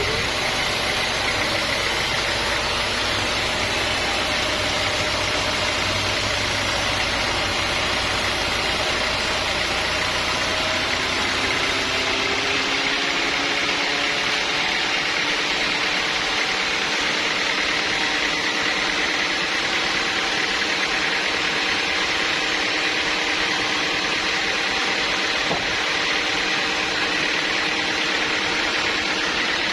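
Sawmill machinery running steadily: a loud mechanical drone. A low hum drops out about twelve seconds in, and the machine's pitch shifts slightly.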